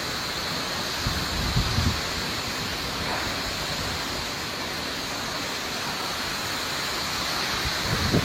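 Strong storm wind blowing as a steady rush, with low gusts buffeting the microphone about a second in and again near the end.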